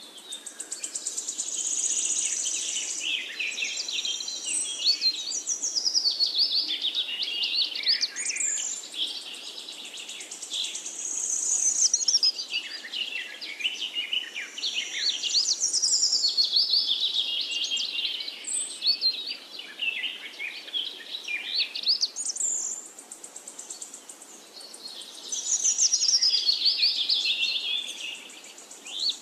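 Birds chirping and singing in overlapping high-pitched phrases that swell and fade every few seconds.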